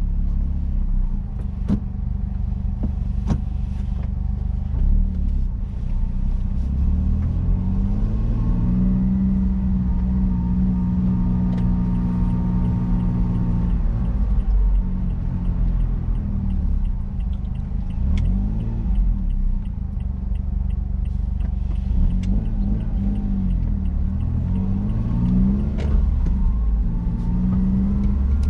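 Honda S660's small turbocharged three-cylinder engine and exhaust running while driving, the revs rising and falling repeatedly.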